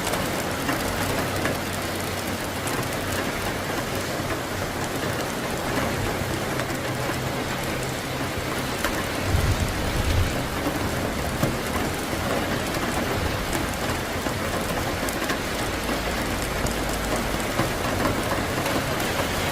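Steady heavy rain falling on surfaces during a thunderstorm, with low rumbling underneath and a brief louder low rumble about halfway through.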